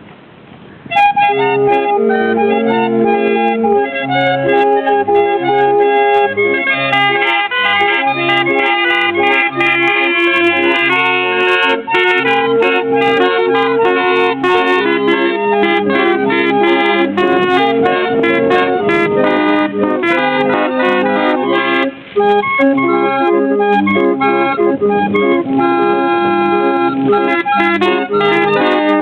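Chilean street barrel organ (organillo) cranked through a tune, with held reedy chords over a regular bass note on the beat. It starts about a second in and breaks off briefly near the end of the second third.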